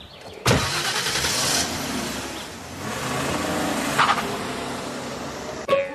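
Car engine starting with a sudden burst about half a second in, then running steadily.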